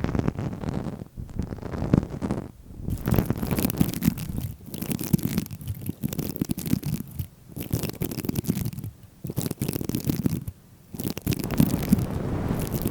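Close-miked ASMR scratching and rubbing sounds, coming in bursts of one to two seconds with short pauses between them.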